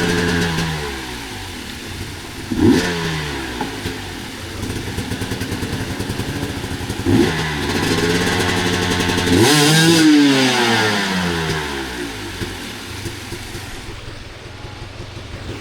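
Dirt bike engine revving hard and dropping back, its pitch sweeping up and falling away four times, the loudest burst about ten seconds in, then easing off.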